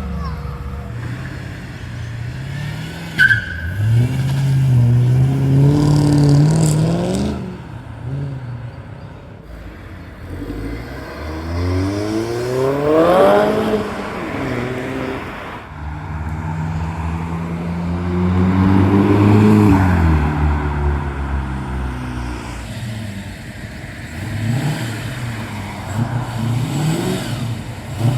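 Several cars pulling away one after another, each engine revving up and then fading as it passes. About halfway through, one car accelerates hard, its engine note climbing steeply.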